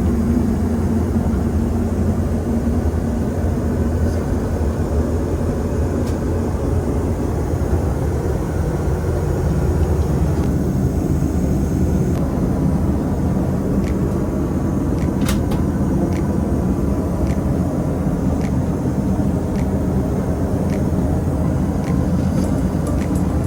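Steady drone of a Boeing 737 heard from inside the passenger cabin: engine and airflow noise, strongest in the low range. A few faint ticks come in the second half.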